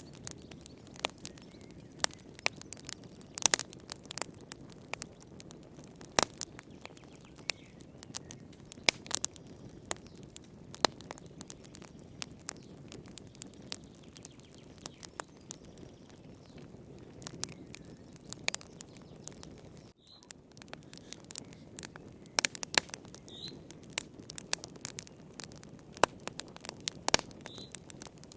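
Wood fire burning in a fireplace: irregular sharp crackles and pops over a low, steady rush of the flames.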